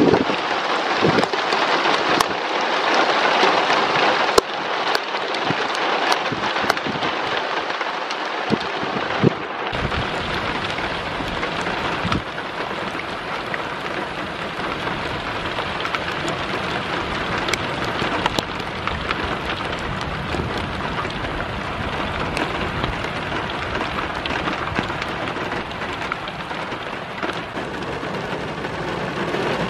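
Heavy rain pouring, a steady hiss with scattered sharp ticks of drops striking a surface in the first several seconds. About ten seconds in the sound changes and a low rumble runs under the rain.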